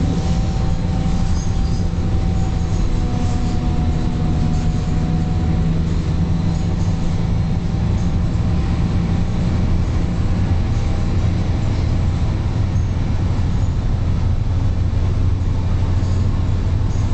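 Scania K230UB single-deck bus running under way: a steady low drone from its five-cylinder diesel engine and drivetrain, with a faint thin whine that fades out about halfway through.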